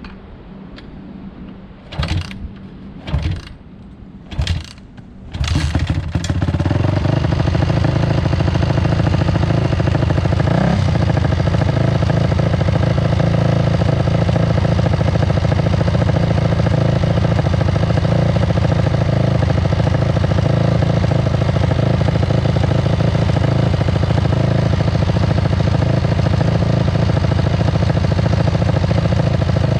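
Honda CRF450R's single-cylinder four-stroke engine being started through an FMF full exhaust (header and pipe) with no spark arrestor. Three short bursts come before it catches about six seconds in, and then it idles steadily and loudly through the open exhaust.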